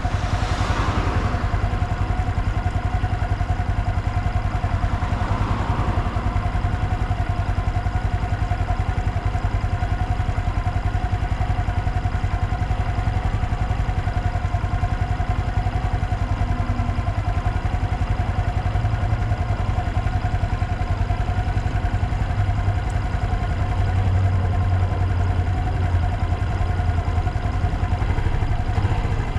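Honda Dax 125's air-cooled single-cylinder engine idling steadily through a Takegawa normal-look sport muffler.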